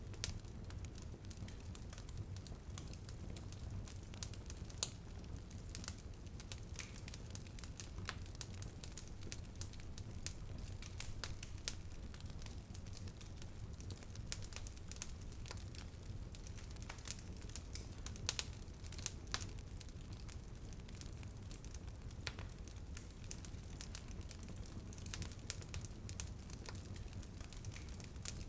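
Wood fire crackling in a fireplace: irregular sharp pops and snaps, several a second, over a low steady rumble, with light drizzle on a window pattering underneath.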